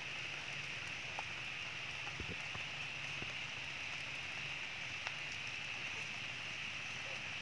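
Steady rain falling, an even hiss with a few faint taps here and there.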